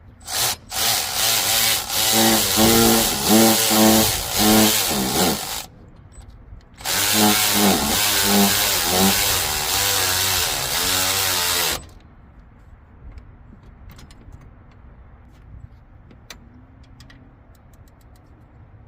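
Handheld power tool run in two bursts of about five seconds each, its motor speed pulsing up and down, tightening the 14 mm bolt that holds the Scion xB's serpentine belt tensioner pulley assembly. A few faint clicks follow.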